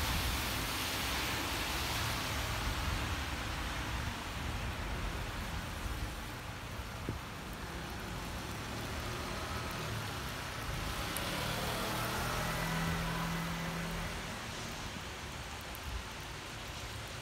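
Steady rain falling on a city street, with a car going by on the wet road in the middle.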